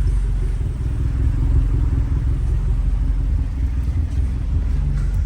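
A car engine running at idle, a steady low exhaust rumble.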